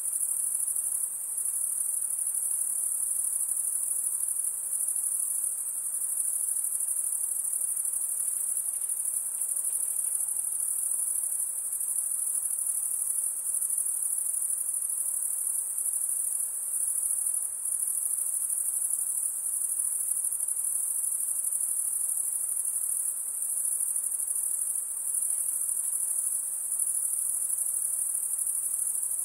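Insects calling in a continuous high-pitched trill, a steady, unbroken sound with small dips in level.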